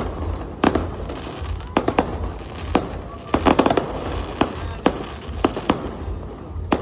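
Aerial fireworks going off in quick irregular succession: sharp bangs and crackle, with a rapid cluster of reports about halfway through, over a steady low rumble.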